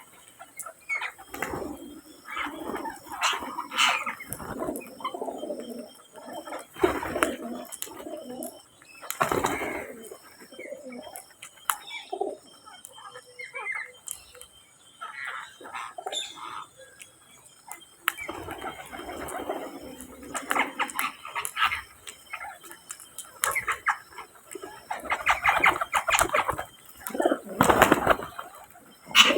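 Pigeons cooing on and off, mixed with shorter bird chirps and calls, now and then a flutter of wings.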